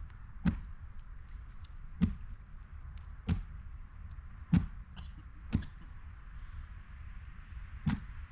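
Six sharp thuds about one to two seconds apart: feet stamping on thick frozen river ice.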